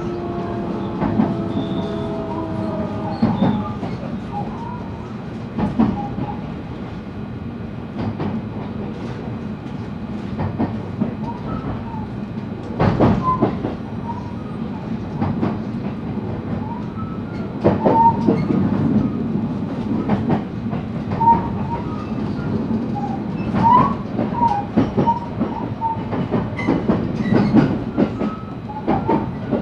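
JR West 223-series electric train running, heard from inside the motor car. The inverter motor's whine fades in the first few seconds. After that, wheel rumble carries on, with irregular rail-joint clicks and a few brief wheel squeals.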